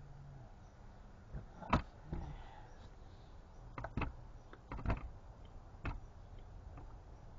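42cc Poulan Pro chainsaw being pull-started: about five short, sharp yanks of the starter cord spread over several seconds, the loudest near the start, with the engine not catching, as is usual for a saw that has sat unused for a long time.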